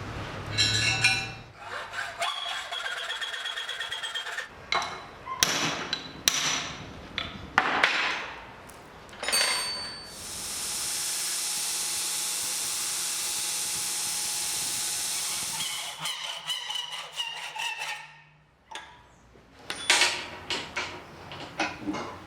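A series of workshop tool sounds: scattered knocks and clanks, a brief tonal squeal near the start, and a steady hiss from about ten seconds in that lasts about six seconds.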